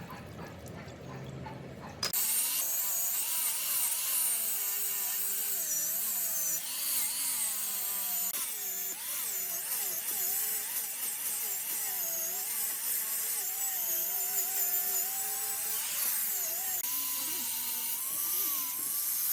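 A handheld electric power tool running, its whine wavering up and down in pitch as the load on it changes; it cuts in suddenly about two seconds in.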